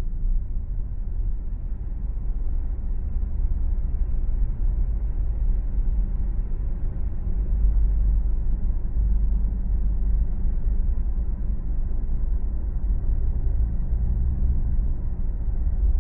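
Steady low rumble of a car driving on the road, the tyre and engine noise of a moving car.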